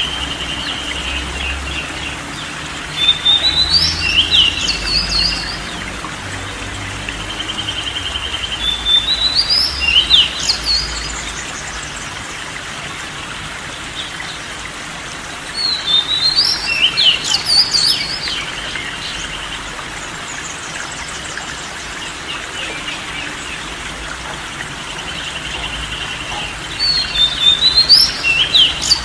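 Bird song, with a burst of quick chirps and rising-and-falling whistles coming back about every six seconds. Between the bursts are short buzzy trills, over a steady background hiss.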